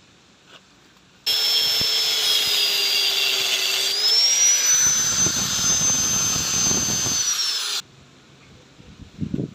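Electric power tool, likely used while building a fence, running with a steady high whine. It starts suddenly about a second in, its pitch steps up partway through as it speeds up, and it cuts off suddenly near the end.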